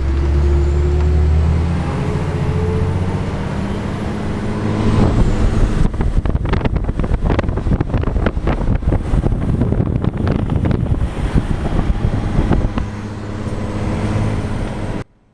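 Scania R420 truck's diesel engine running heavily, joined from about six seconds in by a dense, rapid rattling clatter. The sound cuts off suddenly near the end.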